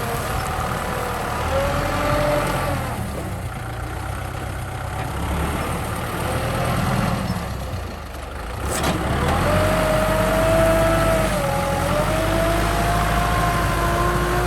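Kubota M6040 tractor's diesel engine running under load, its note wavering; it eases off a few seconds in, then climbs and runs louder past the middle.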